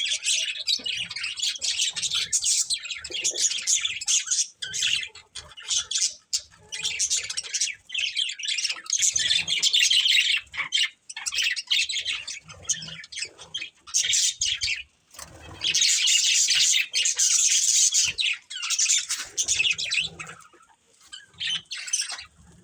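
Budgerigars chirping and chattering in quick, continuous bursts, with several birds calling over each other and short pauses between the bursts.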